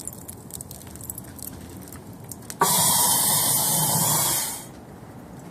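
A hissing spray that starts suddenly about halfway through, runs steadily for about two seconds, then fades out.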